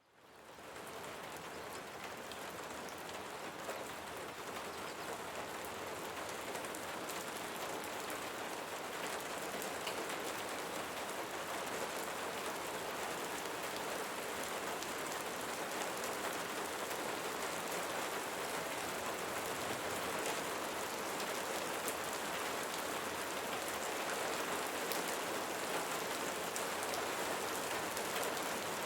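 Steady rainfall, a dense even patter of drops, fading in from silence at the start.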